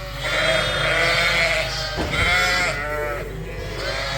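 A flock of ewes and lambs bleating, several calls overlapping one after another: ewes and lambs calling to find each other after being mixed together in a new pen.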